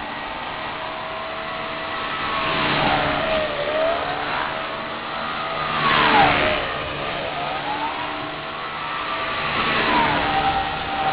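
Align T-Rex 250 SE flybarless electric RC helicopter in flight, its motor and rotor whine dipping in pitch and climbing back three times with a whoosh of rotor noise at each dip, the loudest about halfway through.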